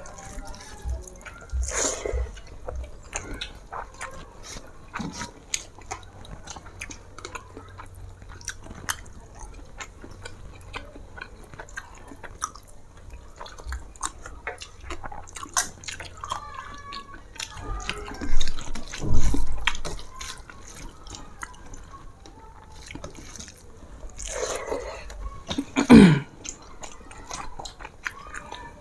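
Close-up eating sounds: wet chewing with many small mouth clicks and smacks, broken by a few louder bumps and rustles.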